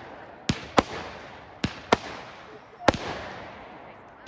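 Fireworks going off: sharp bangs in quick pairs, a pair about every second and a quarter, each bang trailing off in echo.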